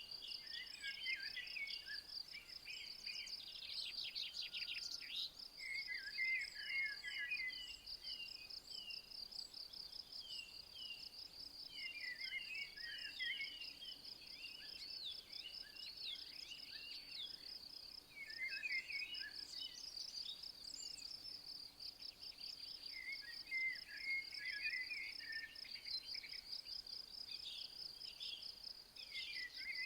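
An insect chirring steadily in fast, even pulses, while a songbird sings short phrases of quick chirping notes every few seconds.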